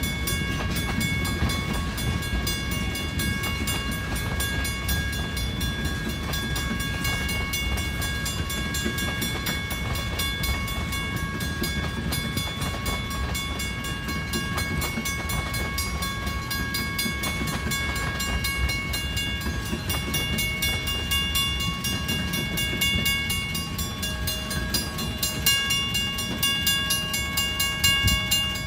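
Freight train of tank cars rolling past with a steady low rumble, wheel clatter and a high steady ringing over it. Near the end, even strikes at about two a second come in from a grade-crossing bell.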